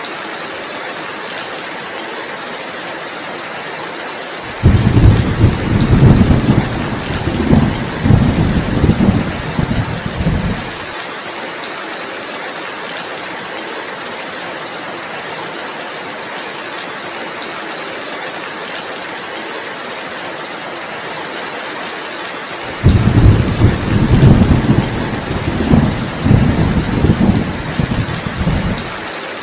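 Steady heavy rainfall hiss, with two loud rolls of thunder of about six seconds each, one starting suddenly a few seconds in and the other near the end.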